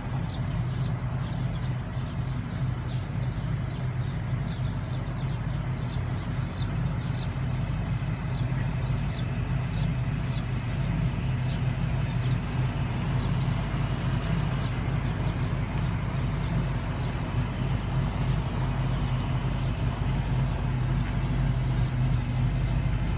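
1992 Ford Mustang GT's 5.0-litre V8 idling steadily, getting slightly louder near the end.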